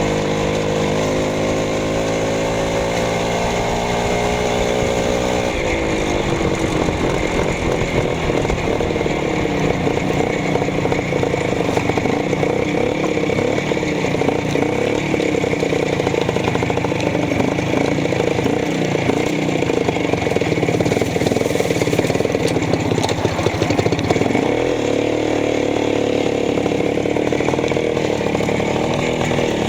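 Minsk motorcycle's two-stroke single-cylinder engine running, steady at first. About five seconds in its note changes and it runs rougher and a little louder, with another shift in pitch near the end.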